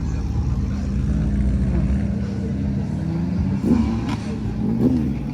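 Car engine running steadily, with two brief louder wavering sounds near the end.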